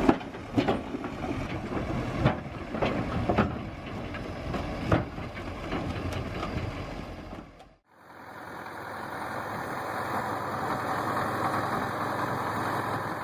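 Heavy vehicle engine running, with repeated clanks and knocks. After a sudden cut about eight seconds in, another engine runs steadily.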